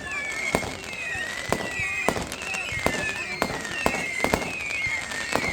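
Fireworks going off: a rapid, irregular string of bangs and cracks over a continuous high, wavering whistle.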